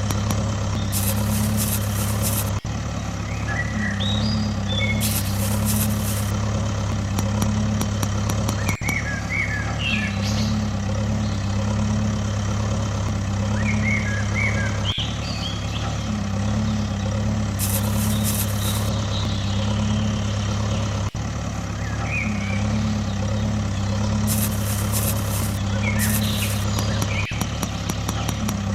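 A steady, engine-like idling hum with birds chirping over it. The same pattern repeats about every six seconds, like a looped background track.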